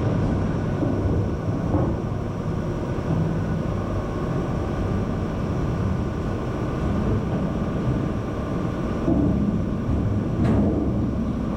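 Ice plant machinery running: a steady mechanical drone with several faint held tones running through it.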